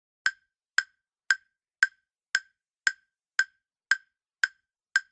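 Countdown timer ticking evenly, about two short sharp clicks a second, ten in all.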